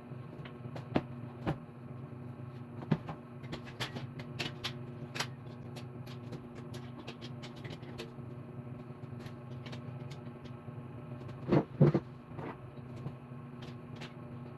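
Scattered clicks and knocks of table parts and hardware being handled and fitted together during assembly, with a close pair of louder knocks about twelve seconds in, over a steady low hum.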